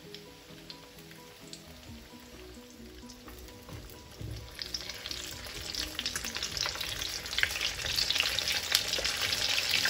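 Chicken croquettes deep-frying in sunflower oil, a steady sizzle and crackle. It is faint at first, then grows much louder and denser from about halfway through.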